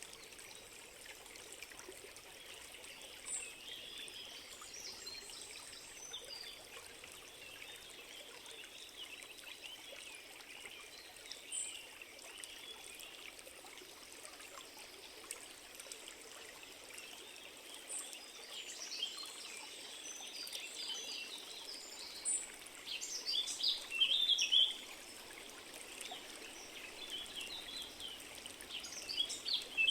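Water trickling steadily like a small stream, with birds chirping and calling over it, the calls busiest a little past the middle.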